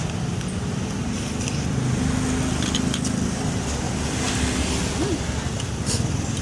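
Road traffic: a motor vehicle's engine running and passing, a steady low rumble with slowly drifting pitch.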